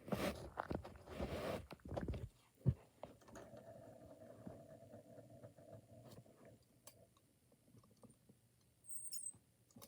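Scraping and rustling from toys being handled for about two seconds, then a single knock, then a faint steady hum for about three seconds and a few faint clicks.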